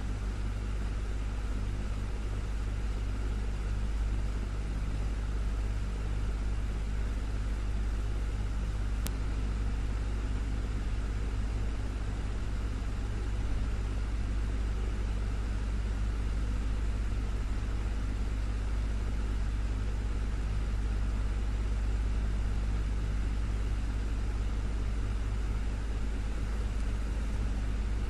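Desktop fan running steadily: a constant low hum with air noise, with one faint click about nine seconds in.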